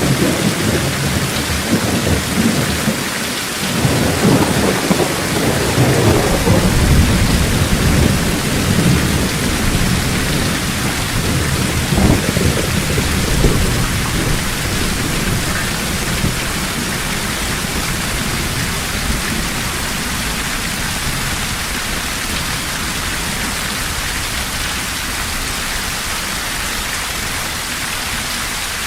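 Heavy rain falling steadily, with rolling thunder rumbling through the first half. A sharper thunder crack comes about twelve seconds in, then the thunder fades and only the rain remains.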